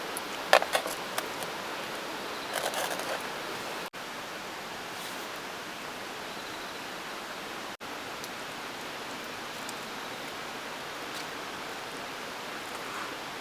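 Steady rushing background noise with a sharp click about half a second in and a brief clatter of small knocks around two and a half seconds in.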